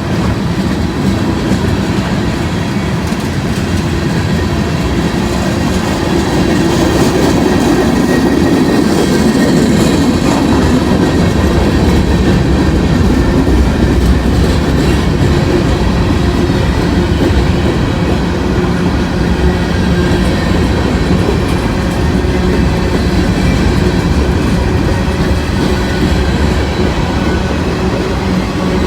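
Freight train cars rolling past on the tracks, a loud, steady rumble of steel wheels on rail.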